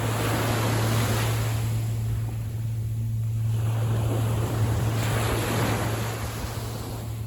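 Sea water washing in two gentle swells, the first about a second in and the second around five seconds in, over a steady low hum.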